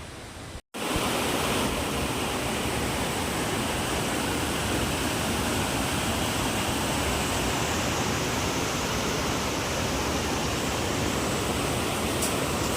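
Steady, loud rush of flowing water, like a mountain stream or small waterfall, with no change through the clip. It starts after a brief cut to silence about half a second in.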